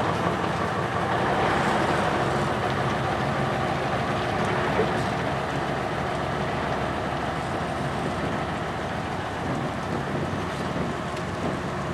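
Steady road vehicle noise: engine hum mixed with tyre and road noise, easing off slightly toward the end.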